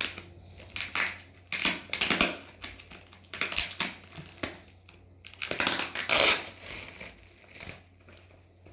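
Taped postal packaging being crinkled and pulled at by hand, in irregular bursts of rustling and crackling.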